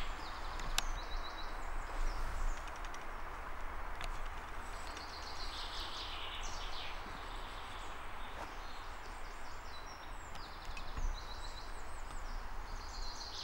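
A songbird singing short, quick trilled phrases every few seconds over a steady forest hiss, with a single sharp click about a second in.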